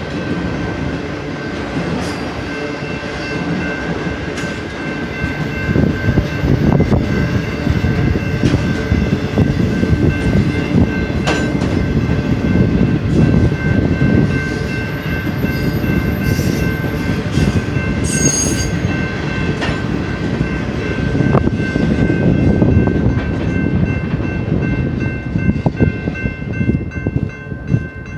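BNSF intermodal freight cars rolling past, wheels rumbling and clacking over the rail joints, with a few steady high-pitched tones from the wheels over the noise. The rolling noise turns choppier and thins out near the end.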